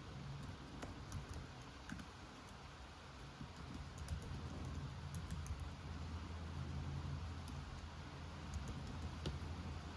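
Computer keyboard typing: irregular keystrokes in short runs, over a steady background of rain and a low rumble that swells in the middle.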